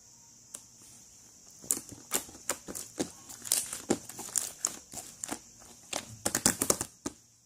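Irregular crinkling and clicking handling noises, like something being crumpled or handled, starting about a second and a half in and growing into a quick run of sharp clicks near the end, over a steady high hiss.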